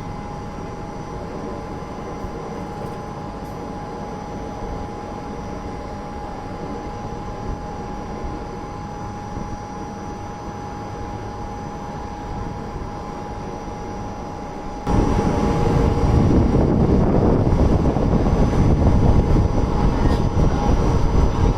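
Steady running noise of a moving passenger train heard from inside the coach, with a faint steady hum. About fifteen seconds in, it abruptly becomes much louder and rougher.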